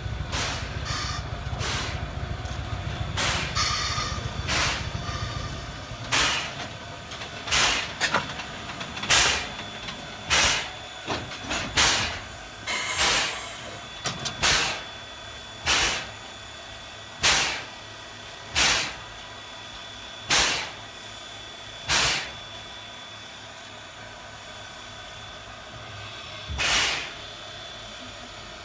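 Steam locomotive: a steady low rumble for the first six seconds, then short sharp puffs of steam about every second and a half, spacing out toward the end.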